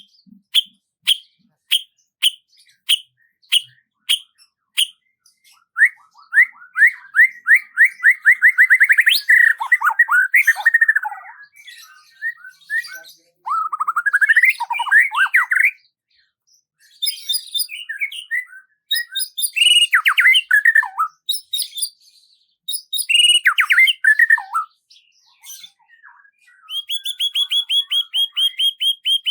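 Songbirds singing: a run of short, evenly spaced chips, then rapid trills and varied phrases with quick downward sweeps, ending in a fast high trill.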